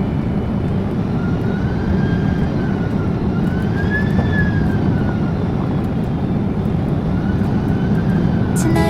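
Jet airliner cabin noise during landing: a steady, heavy roar of engines and airflow, with a faint whine that slowly rises and falls.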